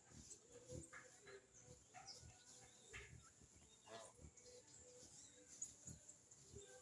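Faint, scattered bird chirps, a few short calls a second or so apart, with some soft low knocks between them.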